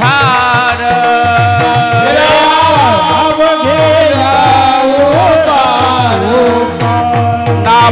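Devotional Warkari kirtan music: a melody sung with long held and gliding notes over a melodic accompaniment, with a hand drum keeping a steady beat.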